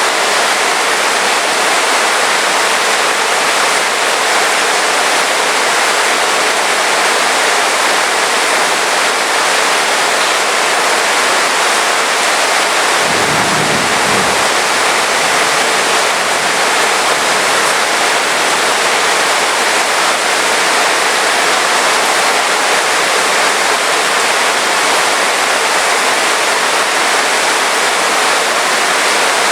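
Heavy rain falling steadily, a dense, even hiss. About halfway through, a brief low rumble lasts a second or so under the rain.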